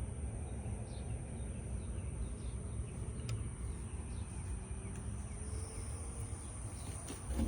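Outdoor ambience: a steady low rumble with faint scattered bird chirps and a steady high insect drone.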